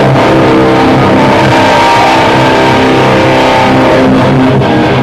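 Metalcore band playing live and loud: distorted electric guitars, bass and drums in a dense, steady wall of sound, with no vocals.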